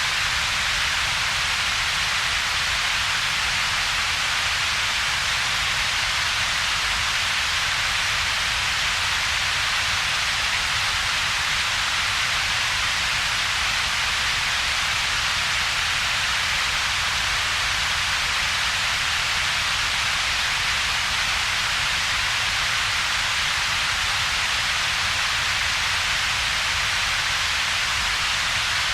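Synthetic double-peaked noise, a steady unchanging hiss. Most of its energy is a bright band in the upper middle of the range, with a second, weaker low rumble band and a hollow gap between the two.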